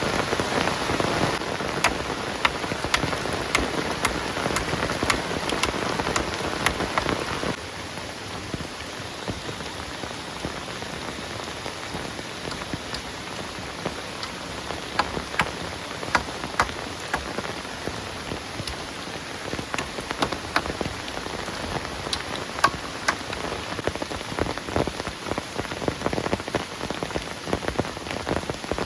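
Heavy rain falling steadily, with many sharp individual drops tapping and dripping close by. The overall rain hiss drops suddenly to a lower level about a quarter of the way in.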